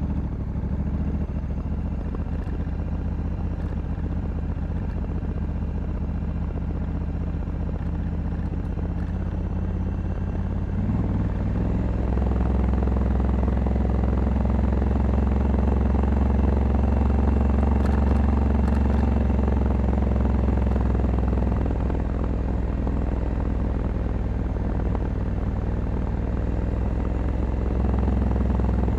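Honda Africa Twin 1100 DCT's parallel-twin engine running while riding. It pulls harder and louder about a third of the way in, eases off a little later, then builds again near the end.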